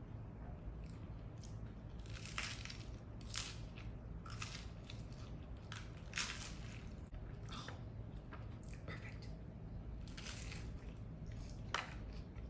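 Close-up crunching and chewing as bites are taken from a fried tortilla tostada bowl filled with salad, with sharp crackling crunches at irregular intervals.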